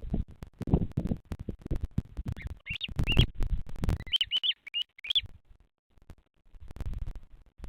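A bird gives a run of about eight short, high chirps over a few seconds, amid irregular low rumbling.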